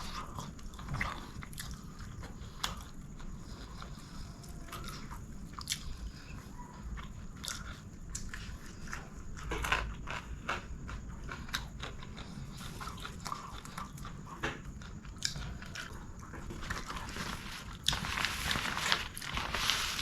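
Close-miked chewing and mouth sounds of someone eating chicken biryani, with irregular small clicks and crunches. Near the end a louder, noisy rustling starts.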